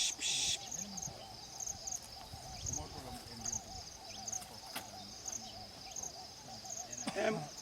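Wild animal calls: a fast, continuous series of low hooting notes, with a high, pulsing insect-like buzz above them. A brief louder sound comes near the end.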